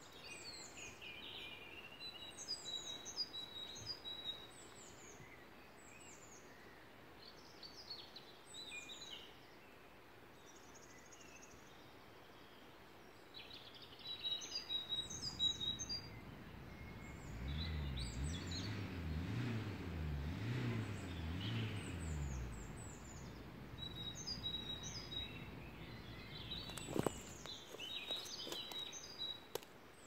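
Spring woodland birdsong: several small birds singing short, high chirping phrases and trills throughout. From about the middle, a distant engine's low drone comes in for several seconds, its pitch rising and falling repeatedly, and a single sharp click sounds near the end.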